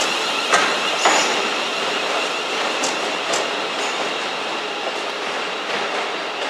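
Electric multiple-unit passenger train pulling out and running away along the track, its wheels clacking sharply over rail joints twice in the first second or so, over a steady rumble with a thin high whine. The sound eases slightly as it draws away.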